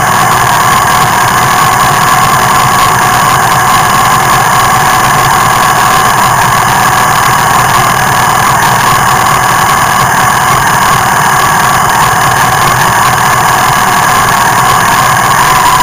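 Kawasaki Z750's inline-four engine idling steadily, heard loud and close from beside the rear wheel.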